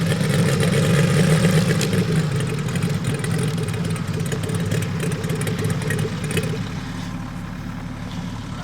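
Valach R5-420 five-cylinder radial engine of a large-scale model aircraft idling just after landing, a steady low drone that drops in level about three-quarters of the way through.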